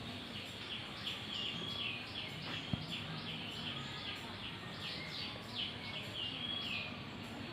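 A parrot calling over and over in short, high, shrill notes, about two a second, each falling or flat in pitch. There is a single sharp tap about a third of the way in.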